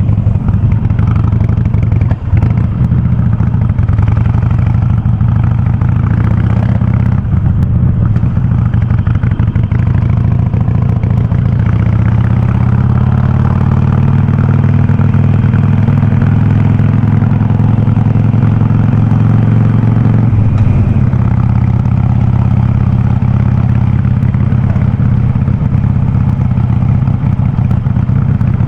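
Harley-Davidson Sportster 48's air-cooled 1200 cc V-twin running loud and deep through a VnH aftermarket 'brong' exhaust while riding. The engine note rises a little through the middle and dips briefly about two-thirds of the way through, as the throttle eases.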